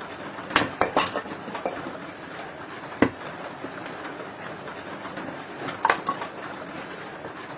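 A few sharp knocks and clinks over a steady hiss: a quick cluster about half a second in, one sharper knock about three seconds in, and another short pair near six seconds.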